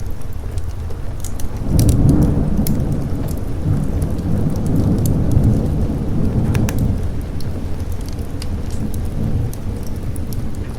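Thunder rolling in over steady rain: a deep rumble swells about two seconds in and fades away over the next several seconds. Scattered sharp crackles run throughout.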